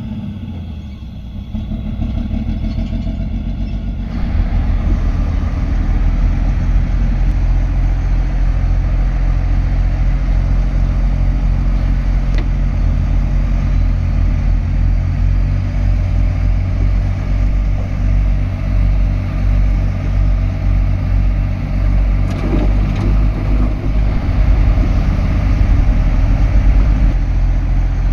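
Heavy diesel earthmoving machinery running steadily, a deep pulsing engine drone. It grows louder and fuller about four seconds in.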